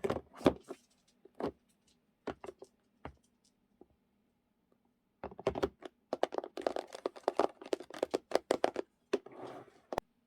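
Taps, clicks and light rustles of journaling supplies being handled and sorted into storage boxes: a few scattered taps, a pause of about two seconds, then a quick run of tapping and clicking, a short rustle and one sharp click near the end.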